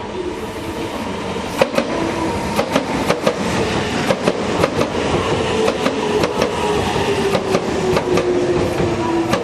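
Meitetsu 2200 series electric train pulling in: rapid clatter of wheels over rail joints and points, with a motor whine that falls slowly in pitch as the train slows to a stop.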